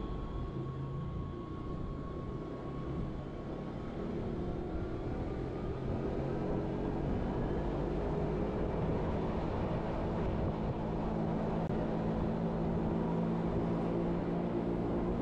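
Wengernalpbahn electric rack-railway train running and gathering speed: a steady rumble with a motor whine whose pitch climbs a few seconds in, while the running noise slowly grows louder.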